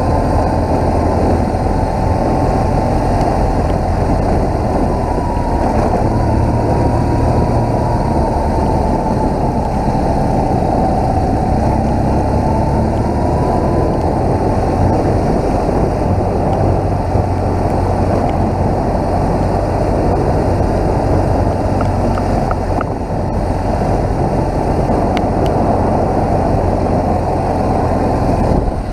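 BMW motorcycle engine running steadily on the move, a low drone mixed with rushing wind and road noise.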